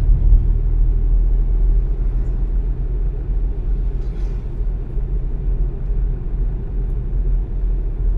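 A car driving along, its engine and tyres making a steady low rumble.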